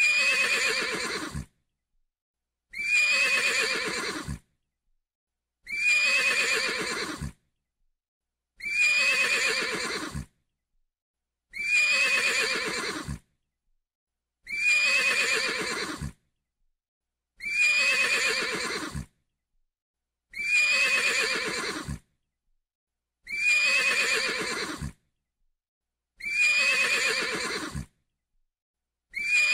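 Horse whinnying: the same whinny repeated about every three seconds, each call about a second and a half long with silence in between.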